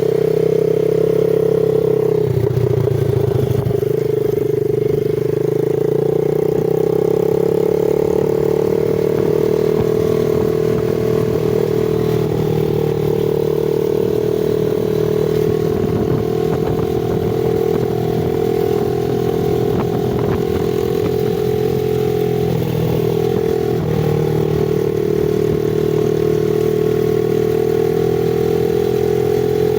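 A 110cc single-cylinder four-stroke X-Pro semi-automatic dirt bike engine runs steadily under throttle. Its note holds at a fairly even pitch, with brief dips about two seconds in and again near the end.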